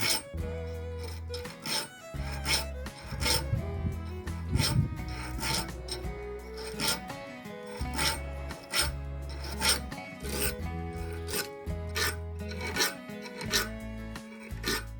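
A file rasping in repeated strokes across the steel teeth of a hole saw as they are sharpened, with background music underneath.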